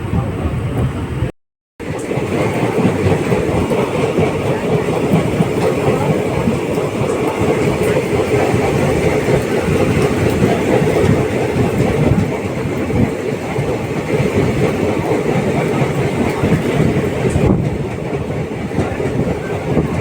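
Indian Railways ICF passenger coaches running along the track: a steady rumble with wheels clattering over the rails. The sound drops out completely for a moment about one and a half seconds in.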